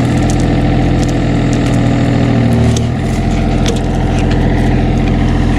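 A construction machine's engine running steadily close by, its note shifting slightly lower about three seconds in, with a few light clicks.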